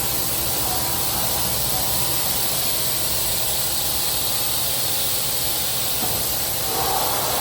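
High-pressure water jets of a touchless automatic car wash spraying a car, a steady hiss with a slight change in tone near the end.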